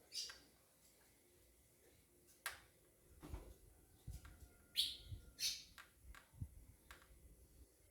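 Scattered light clinks and dull knocks of hand tools and metal parts being handled on a motorcycle engine as its top end is dismantled, with a few short, high chirps.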